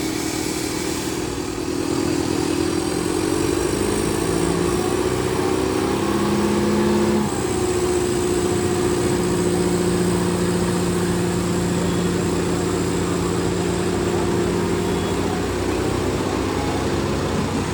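Tractor diesel engine running hard. The revs rise about two seconds in, then hold steady.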